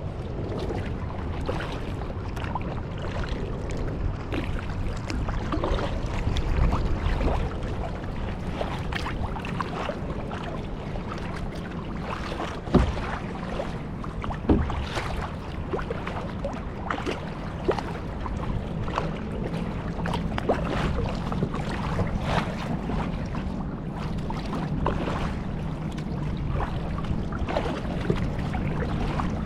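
Kayak paddling: irregular splashes and drips of water from the paddle over a low rumble. Two sharp knocks stand out about halfway through.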